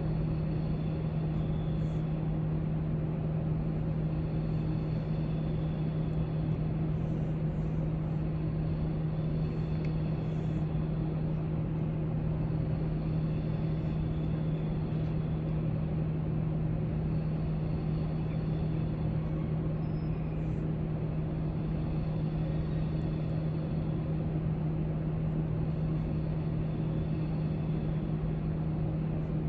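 Steady low hum of a library room's background noise, with a few faint light ticks now and then.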